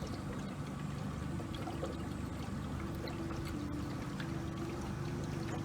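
Small sightseeing boat's motor running steadily, with a low hum and water washing along the hull as it cruises.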